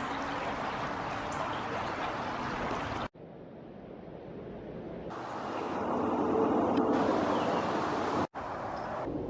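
Steady rushing water noise, broken by two abrupt cuts about three and eight seconds in. Between the cuts it starts quieter, then swells, with a faint low hum underneath.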